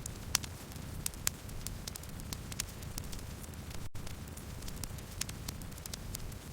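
Campfire burning: a steady low rumble with irregular sharp crackles and pops of burning wood, several a second, and a momentary dropout of all sound just before the middle.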